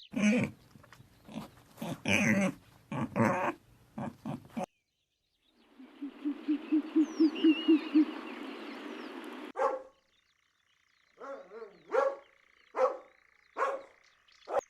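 A run of different animal calls, one clip after another: first a burst of short dog-like barks, then a quick series of low pulsed calls over a hiss, then five short calls evenly spaced near the end.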